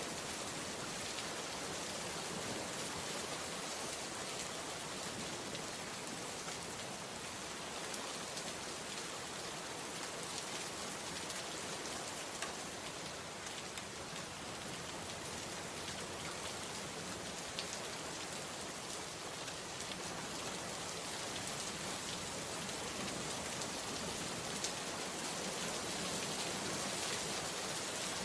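Steady rain falling, a constant hiss with scattered ticks of individual drops striking a surface.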